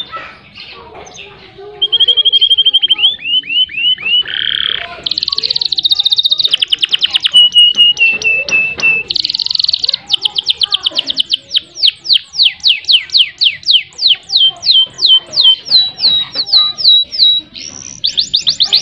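Domestic canary singing in long rolls: fast trills and rapid runs of repeated notes, then a long series of quick downward-sweeping whistles, about four a second, that speed up near the end.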